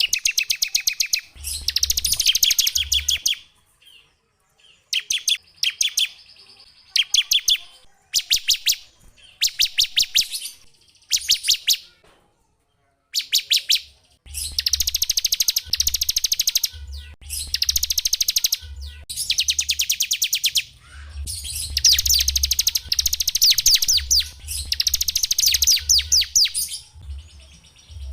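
Small songbird singing rapid, high trilled phrases of quickly repeated notes, each phrase lasting from about half a second to two seconds, with brief pauses between them. A low hum sits under many of the phrases.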